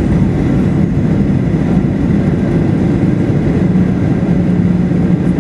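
Steady low rumble of an airliner heard from inside the cabin during landing. A humming tone grows stronger about two-thirds of the way through.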